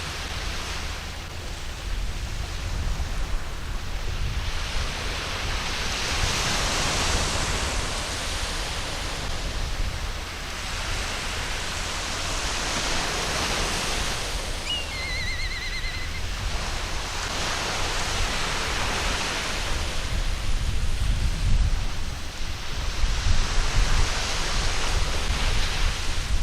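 Waves breaking on a sandy beach, the surf swelling and falling back about every six seconds. A seagull gives one short call about fifteen seconds in.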